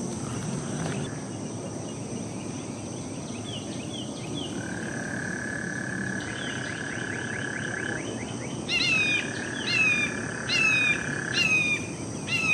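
Morning woodland ambience: a bird repeats falling, whistled chirps about twice a second, loudest in the last few seconds. Underneath are a steady high insect drone and a steady mid-pitched tone that starts and stops.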